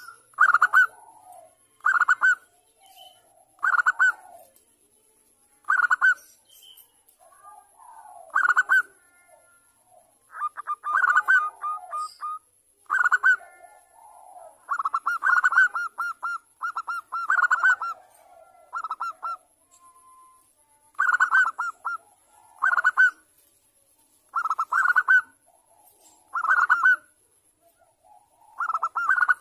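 Zebra dove (perkutut) cooing: short, fast staccato phrases of rapid coos repeated about every two seconds, with softer, lower coos in between.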